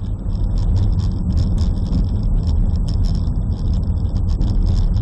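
Steady low rumble of a car in motion, road and engine noise, with a thin high whine and scattered light ticks over it.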